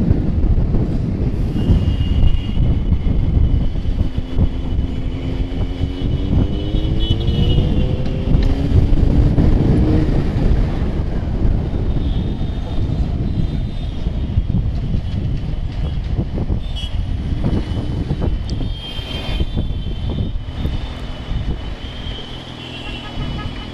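Riding a motorcycle through city traffic: steady wind and road rumble, with the bike's engine rising in pitch twice between about 4 and 10 seconds in as it accelerates through a gear. High steady vehicle horns sound over it for long stretches.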